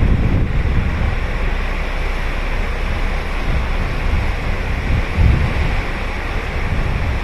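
Ocean surf breaking and washing up the beach in a steady hiss, with wind buffeting the microphone in low rumbles at the start and again about five seconds in.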